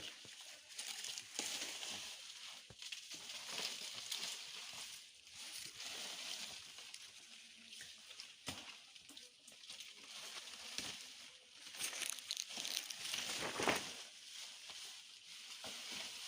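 Rustling, crinkling and scattered knocks of shelter-building work with poles and sheeting, over a steady high hiss. A louder rustling burst comes near the end.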